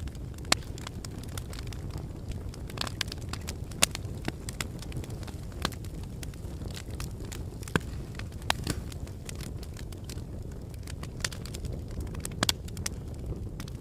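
Wood fire burning in a fireplace: a steady low rumble of flames with irregular sharp crackles and a few louder pops.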